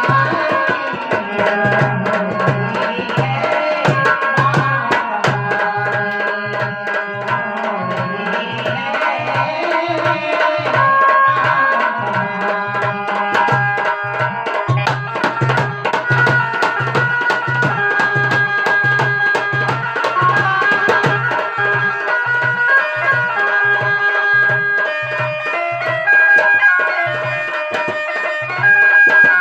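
Instrumental passage of a Bundeli devotional bhajan: hand drums keep a steady beat of about two strokes a second under a sustained melody, with no singing.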